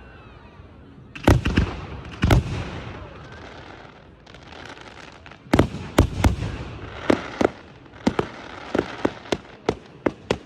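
Aerial fireworks display: loud shell bursts with crackle trailing between them. A few bangs come in the first few seconds, then a short lull, then a quick run of sharp reports toward the end.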